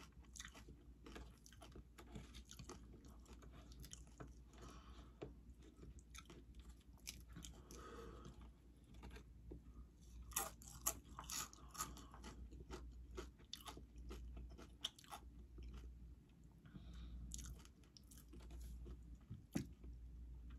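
A person eating nachos, crunching and chewing tortilla chips in quiet, repeated bites, with a few louder crunches about halfway through.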